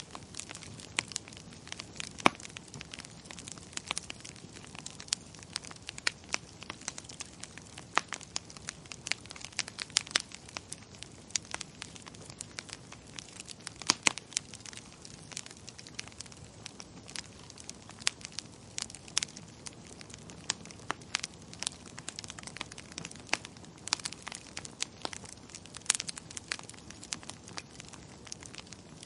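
Wood fire crackling in a fireplace: a steady low hiss with frequent irregular sharp pops and snaps, a few of them louder.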